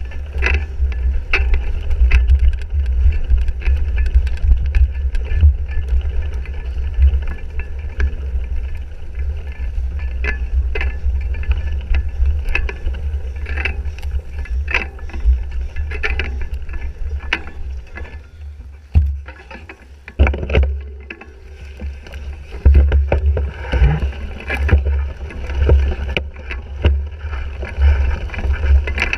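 Cyclocross bike (2017 Fuji Jari 1.5) rattling and clattering over rough race ground, with frequent sharp knocks. Heavy wind buffeting on the bike-mounted action camera's microphone. The noise eases for a few seconds past the middle.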